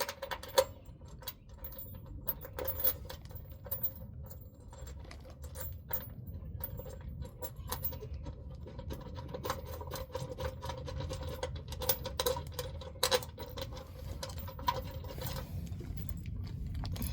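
Irregular small metallic clicks and rattles of bolts and hand tools being worked while mounting truck side step rails, over a faint steady hum and low rumble.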